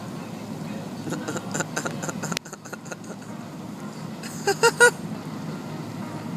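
Steady low hum of a car idling, heard from inside the cabin. Over it come short broken vocal sounds about a second in, and three quick loud bursts like laughter near the five-second mark.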